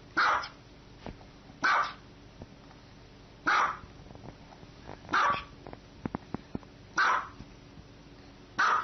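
A dog barking six times, one short bark about every one and a half to two seconds.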